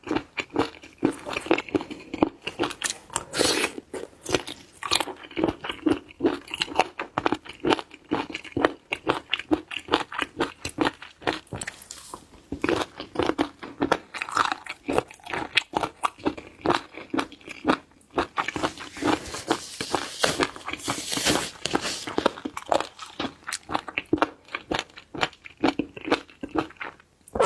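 Close-miked chewing of raw abalone: a dense, continuous run of crunchy, crackling bites and chews.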